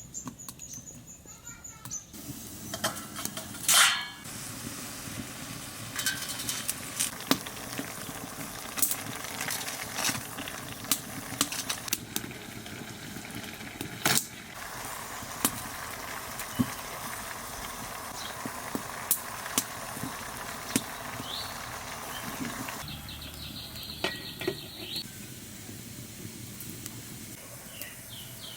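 Cooking sounds: scattered sharp clinks and knocks of utensils and cookware over a steady background hiss, with a few louder knocks.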